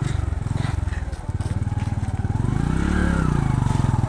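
Motorcycle engine running under way, heard from on the bike. It eases off briefly about a second in, then revs up and back down around three seconds in.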